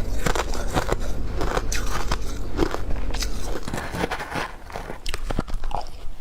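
Ice being bitten and chewed close to the microphone: a run of sharp crunches and cracks, packed tight for the first few seconds, then thinning out.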